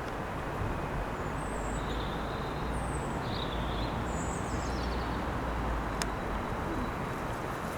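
Wind gusting against the microphone as a steady low rumble, with a few short high bird chirps in the first half.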